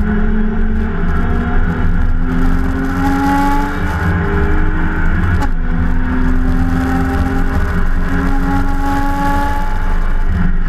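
BMW E30 325i race car's straight-six heard from inside the cabin under full acceleration: the engine note rises steadily, drops at an upshift about five and a half seconds in, then climbs again.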